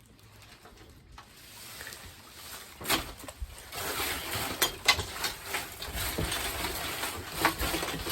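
Live crawfish clattering and scratching against each other and a crawfish grader as the pile is shuffled back and forth, with many scattered sharp clicks. Faint at first, building after about a second and a half.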